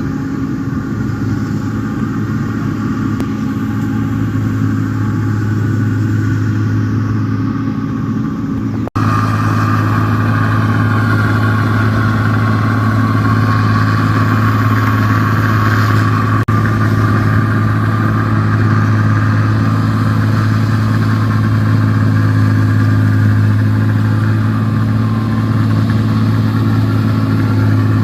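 New Holland 1545 combine harvester running steadily with a constant engine hum. About nine seconds in there is a brief break, after which the machine is louder.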